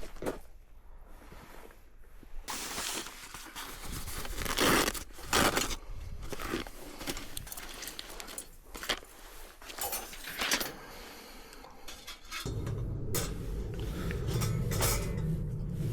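Camping gear being handled and set out: irregular scraping, rustling and light clinking. About twelve seconds in, a steady low rumbling noise starts and continues under the handling.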